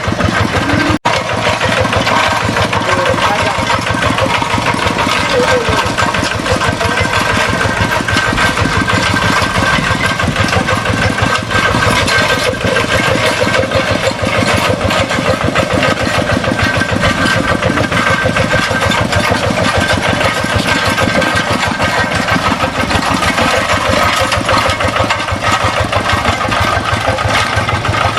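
Paddy-field tractor engine running steadily with a rapid, even firing beat, with a momentary break about a second in.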